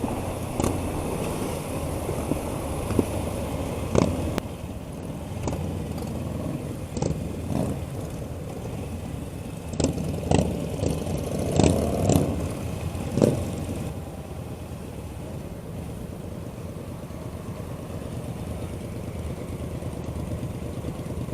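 Kawasaki Ninja 300 parallel-twin running during a ride, mixed with steady road and wind rush, with several sharp knocks between about 4 and 13 seconds in; the sound drops a little after that.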